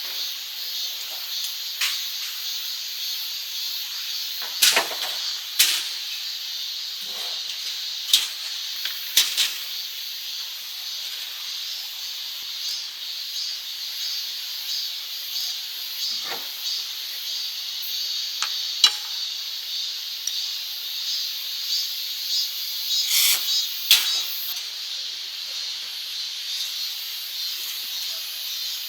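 Night chorus of grass insects such as crickets, a steady high shrill chirring throughout. A handful of sharp clicks or knocks are scattered through it, the loudest about two-thirds of the way in.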